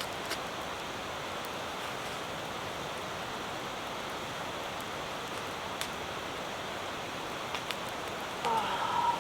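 Steady hiss of rain falling, with a few sharp clicks scattered through it. Near the end there is a brief, louder pitched sound that bends in pitch.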